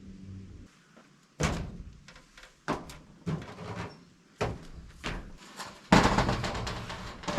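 Sheet-metal roofing panels being handled and set in place: a series of sharp knocks and thuds, then a longer, louder rattle near the end.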